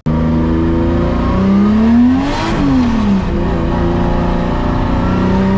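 Nissan R32 Skyline drift car's engine, loud, revving up, peaking about two and a half seconds in, then dropping back and holding steady before climbing again near the end.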